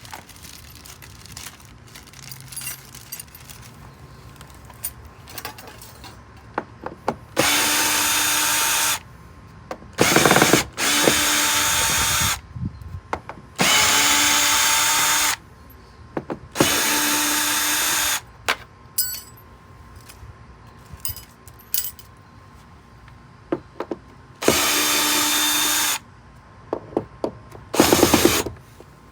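Cordless power drill running in repeated short bursts, about seven times, each a second or two long, with clicks and knocks from handling in between. It is removing the fasteners that hold the camper's water heater in place.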